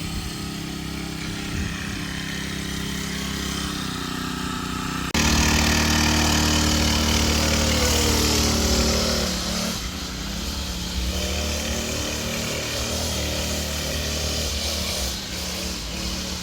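Mini bike's small gas engine running under a rider; it jumps suddenly louder about five seconds in, holds for about four seconds, then the revs drop and it settles back to a steadier running note.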